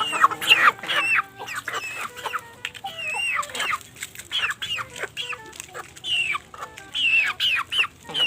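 A flock of native chickens clucking, many short calls overlapping one another, with a few sharp clicks among them.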